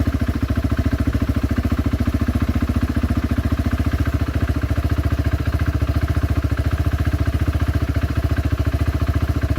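Kawasaki Brute Force 300 ATV's single-cylinder four-stroke engine running steadily. It has an even, quick pulse of about ten beats a second and no change in speed.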